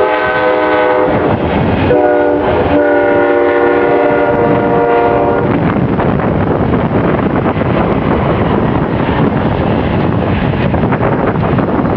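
Amtrak passenger locomotive's air horn sounding a multi-note chord: the end of one blast, a short blast about two seconds in, then a long blast ending about halfway through. After the horn stops, the train's loud rumble and wheel clatter continue as the bilevel Superliner cars roll in.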